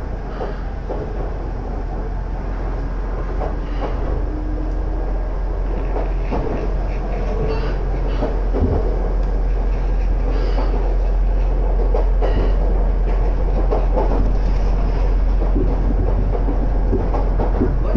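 Iga Railway electric train, a rebuilt former Tokyu car, running along the line as heard from inside the carriage: a steady rumble of wheels on rail with scattered clicks from the track, slowly getting louder.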